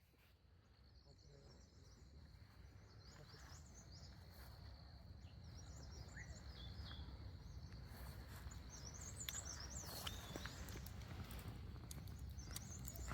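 Faint outdoor night ambience fading in. A steady high insect drone runs throughout, with scattered high chirps and a low hum of background noise.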